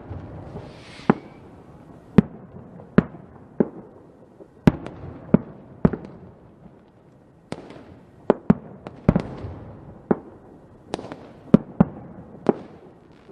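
Fireworks going off: many sharp bangs at irregular intervals, often more than one a second, over a low rumbling background.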